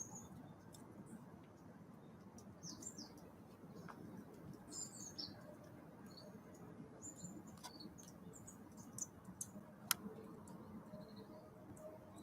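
Small songbirds giving short, high chirps and calls, with scattered sharp taps, one much louder toward the end, over a soft steady hiss of rain.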